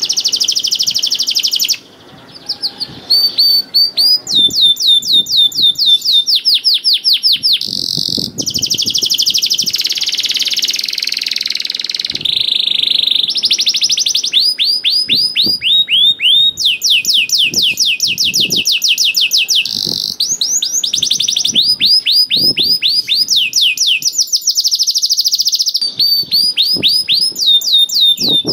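Domestic canary singing a long, unbroken song of rapid trills: each phrase is a quick run of the same short falling note repeated many times a second, and the bird switches to a new phrase every second or two. There is a brief break in the song about two seconds in.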